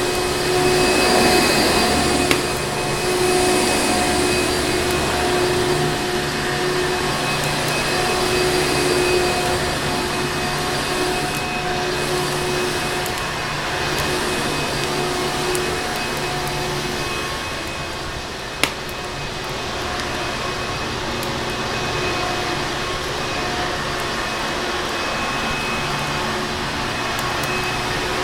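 Vacuum cleaner motor running steadily, an even rushing noise with a constant whine in it. A sharp pop about two seconds in and a louder one past the middle, fireplace crackles mixed in.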